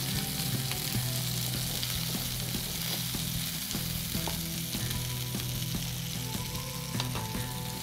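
Skewered minced-chicken kebabs sizzling as they fry in a pan on a gas stove, a steady hiss, with light metal clicks as the skewers are turned with tongs.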